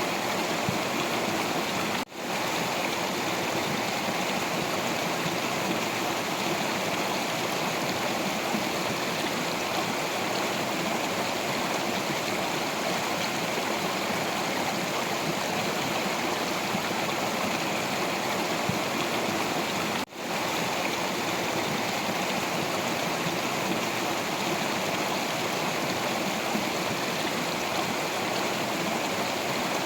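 Stream water rushing and gurgling steadily over rocks, with two momentary dips in the sound, about 2 seconds and 20 seconds in.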